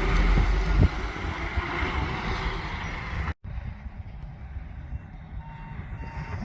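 Lorry engine running close by, loudest in the first second, then a sudden cut to a quieter stretch with a few faint short beeps from a lorry's reversing alarm.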